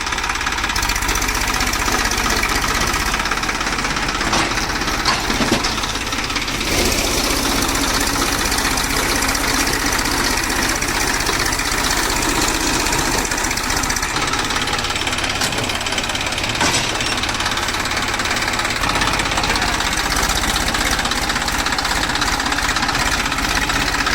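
Massey Ferguson tractor's diesel engine running steadily, with a few brief knocks about four to six seconds in.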